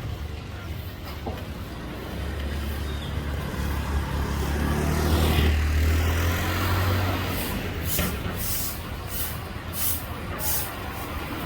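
Road traffic: a large vehicle's engine rumbles, growing louder to a peak mid-way and then fading. Near the end comes a series of short hissing bursts.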